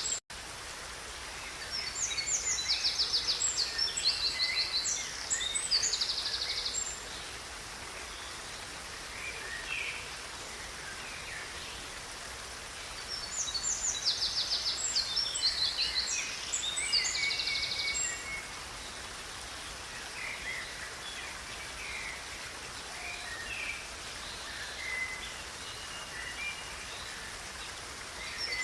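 A songbird sings two long phrases of fast high trills and chirps, about two seconds in and again around thirteen seconds, with scattered single calls between, over the steady rush of flowing river water.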